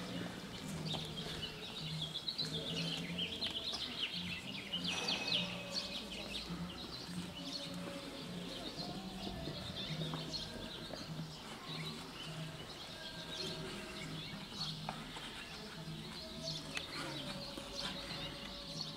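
Small birds chirping, with the murmur of people's voices in the background.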